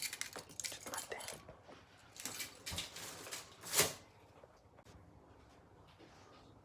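A run of clicks, clinks and rustles for about four seconds, the loudest one near the end of the run, then faint room tone.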